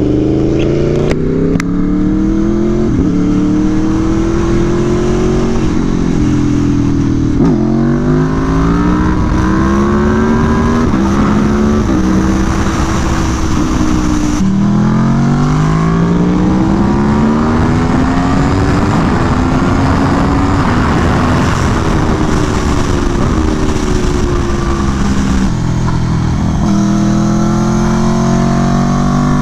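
Aprilia Tuono V4 1100 Factory's V4 engine at hard acceleration on track, heard onboard: the pitch climbs and drops sharply at each quick upshift, then falls in steps as it downshifts into corners, and this repeats several times. Wind noise runs underneath.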